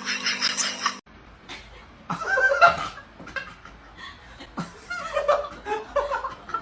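A person laughing in short bursts with pauses between them. In the first second, a rapid, evenly repeating pulsing sound over a steady hum cuts off suddenly.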